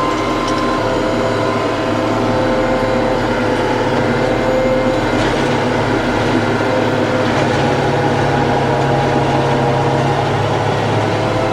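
Diesel engine of a TYM T654 tractor running steadily, with a slight change in its low tone about two-thirds of the way through.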